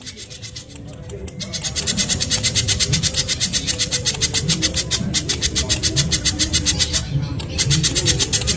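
Spiderhunter giving a rapid, high-pitched chattering trill of evenly repeated notes, about nine a second. It starts about one and a half seconds in, breaks off briefly near the end, then resumes.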